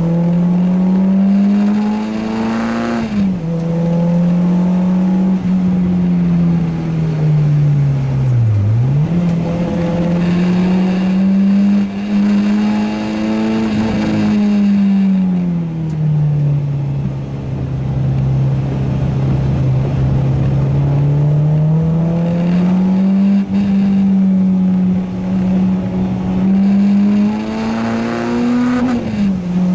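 Renault Clio 2 RS's four-cylinder engine pulling hard on track, its note climbing under acceleration and dropping sharply at each gear change several times, with a long lower, steady stretch in the middle.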